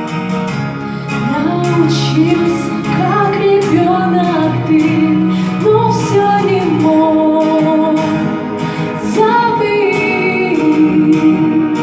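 A woman singing a slow song over guitar accompaniment, holding long notes and stepping between them.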